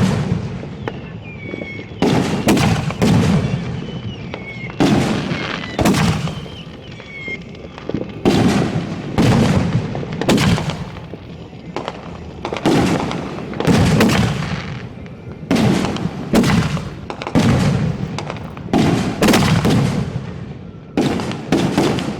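Fireworks finale barrage heard close to the launch site: aerial shells launching and bursting in quick clusters of two or three booms every couple of seconds, with a few short falling whistles in the first several seconds.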